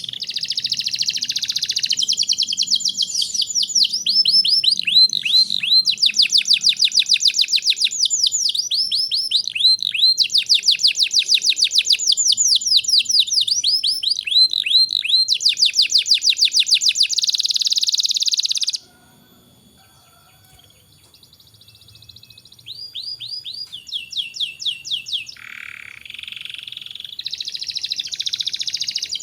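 Domestic canary singing a long, fast song of rapid trills and rolls. The song breaks off suddenly about two-thirds of the way through, and after a few seconds of near-quiet the trills start again.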